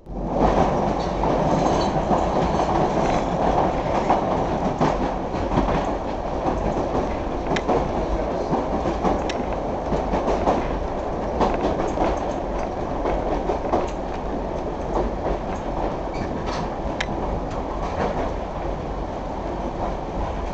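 Heard from inside a 1938 stock tube train car: the steady rumble and rattle of the train running on the rails, with scattered sharp clicks of the wheels over the track. It gets a little quieter toward the end as the train runs in alongside the station platform.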